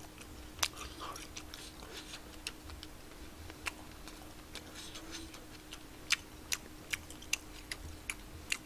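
Scattered sharp clicks, with a quicker run of about two a second in the last few seconds, over a faint steady hum.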